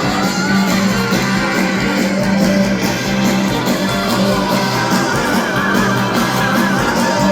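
Live rock band playing, with electric guitar over a steady bass line. A wavering, held high note comes in about five seconds in.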